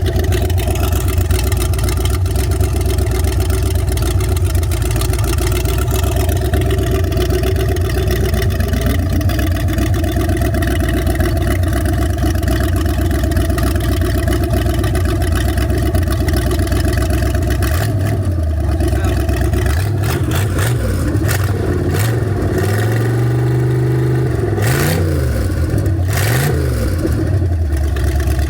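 Marine 5.7-litre Chevy V8 running steadily, its pitch creeping up about a third of the way in, then revved up and down several times near the end.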